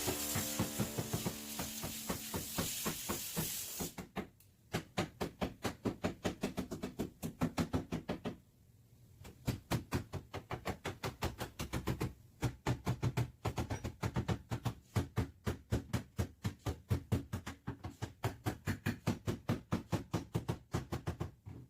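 Body hammer tapping a dented car back panel in rapid, even strikes, about four to five a second, pausing twice briefly. For the first four seconds a steady hiss runs under the strikes and then cuts off.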